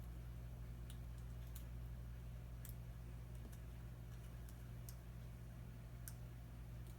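Faint, scattered small clicks of hands picking at Kapton tape over a tablet's battery connector, about six over the few seconds, above a steady low hum.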